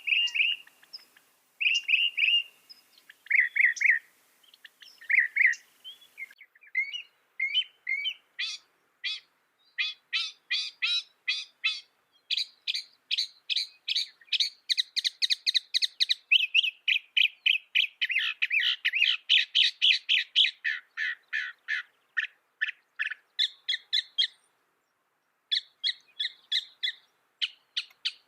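Mockingbird singing. Spaced chirps at first, then long runs of fast, repeated short notes, the phrase type changing every few seconds, with a pause of about a second near the end.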